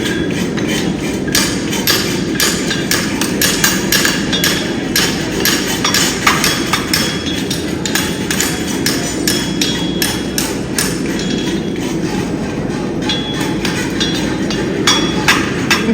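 Several axes chopping into wooden logs in a woodchopping race: rapid, irregular overlapping strikes, several a second, over a steady hubbub of the crowd.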